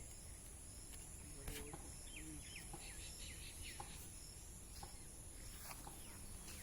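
Small birds giving a run of short, quick chirps, thickest through the middle, over a steady high insect buzz and faint low outdoor rumble.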